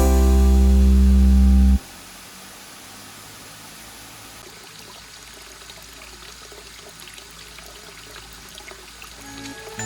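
A sustained chord of background music cuts off about two seconds in, leaving a steady rush of running water, like a forest stream or small cascade. Music comes back in right at the end.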